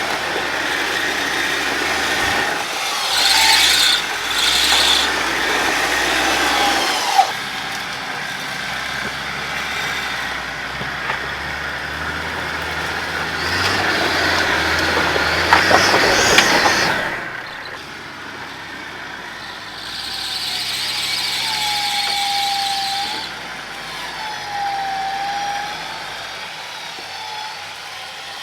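4x4 electric winch hauling a vehicle up a steep rock climb, its motor whining in spells with a sagging pitch as it takes the load, over the engine running. A louder stretch builds and cuts off suddenly about 17 seconds in.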